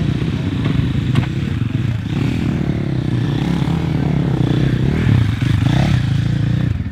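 Off-road motocross bike engines running, revving up and down.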